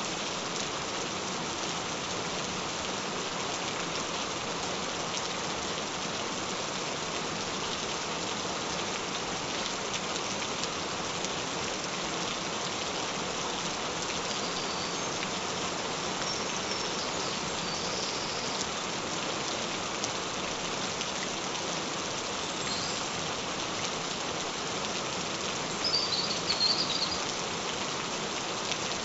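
Steady gentle rain falling, an even wash of patter. Near the end comes a brief burst of high-pitched chirping.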